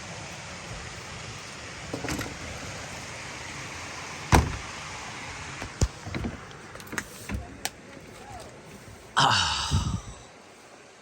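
Vehicle door handling: latch clicks and a sharp knock about four seconds in, a run of smaller clicks, then a louder scraping rush of a door moving about nine seconds in, over a steady outdoor hiss.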